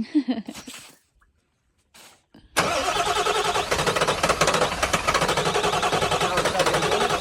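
A 7.3 diesel truck engine cranking on its starter in a cold start. It kicks in suddenly about two and a half seconds in after a short silence, and keeps going in a dense, rapid chatter.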